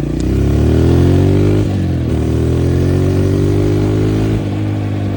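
Honda CRF125F dirt bike's single-cylinder four-stroke engine revving up as the bike pulls away. The revs climb, drop back about one and a half seconds in, climb again, then settle to a lower, steady run a little after four seconds in.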